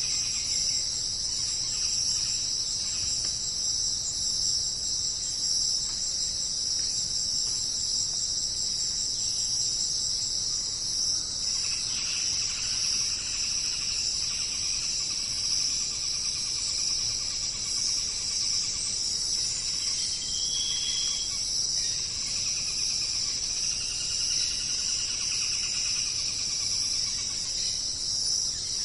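Steady chorus of crickets, a continuous high trill. A fainter, lower trill joins about twelve seconds in, and a short high note sounds about twenty seconds in.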